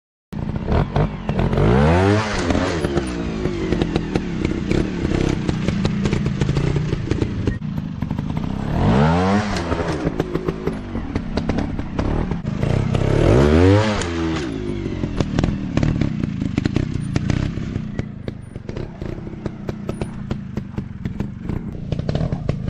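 Dirt bike engine running and revving, its pitch rising and falling sharply three times about seven seconds apart, with constant clattering and crackling over it.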